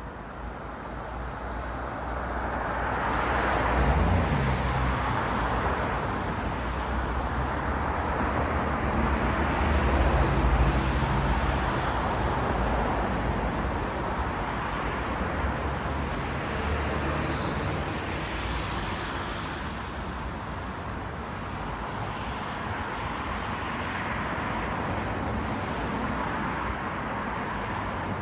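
Road traffic: cars passing one after another, their tyre noise and low engine hum swelling and fading, loudest about four and ten seconds in.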